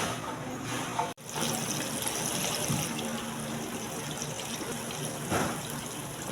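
Water running steadily from a tap into a sink in a commercial kitchen, with a faint low hum beneath it. The sound cuts out for an instant about a second in.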